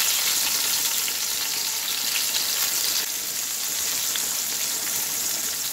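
Raw eggplant slices frying in hot oil in a frying pan: a steady sizzle with small spits and crackles.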